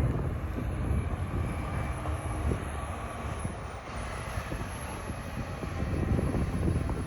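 Front-end loaders' diesel engines running while pushing snow, a steady low rumble.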